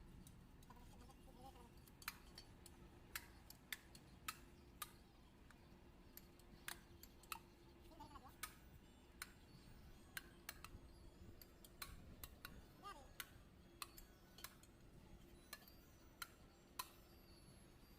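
A series of sharp, irregular clicks, roughly one or two a second, over a faint steady hum.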